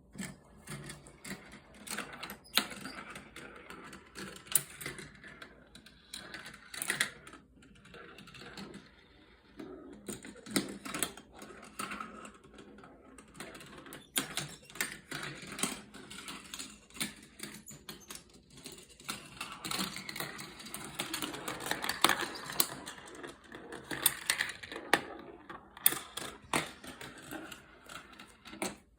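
Steel marbles rolling and clattering through a GraviTrax plastic marble-run track, with frequent sharp clicks and knocks from the balls striking track pieces, over a continuous rolling rattle.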